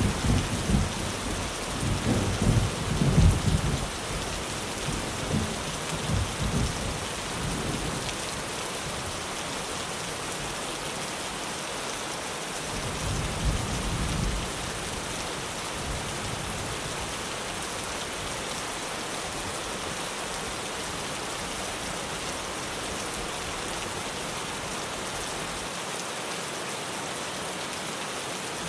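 Steady heavy rain on a tin roof, with rolling thunder rumbling through the first several seconds and once more about halfway through.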